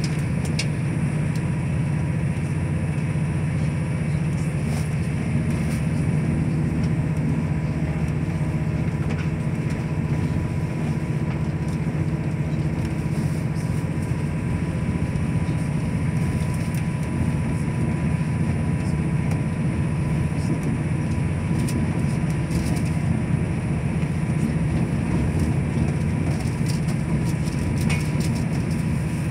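Steady running noise of a moving diesel passenger train heard from inside the carriage: a constant low hum, a faint steady whine, and an even rumble of the wheels on the track, unchanging throughout.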